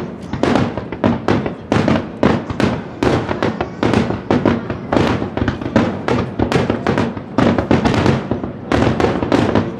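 Close-range fireworks display: a rapid barrage of shell launches and bursts, several sharp booms a second, each with a short echoing tail.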